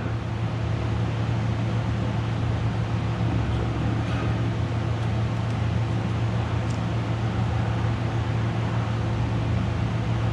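Steady low mechanical hum with an even hiss, the constant drone of running equipment in a shop.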